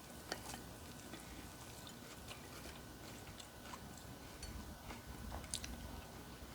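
Faint chewing and biting on fried chicken, with scattered small crisp clicks.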